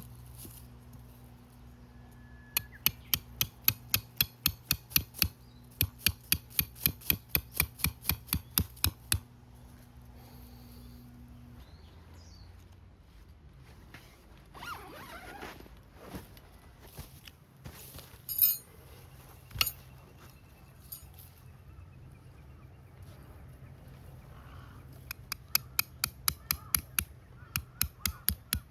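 Repeated sharp knocks, about three a second, in two runs: one a few seconds in and one near the end, with a few single louder knocks in between. A steady low hum runs under the first half and stops about halfway through.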